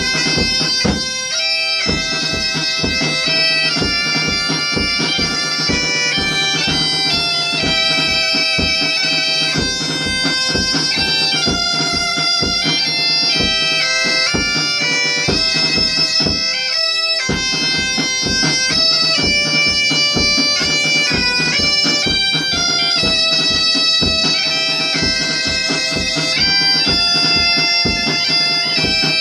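Bagpipe (gaita) playing a lively folk tune over its steady drone, with a regular drum beat under it.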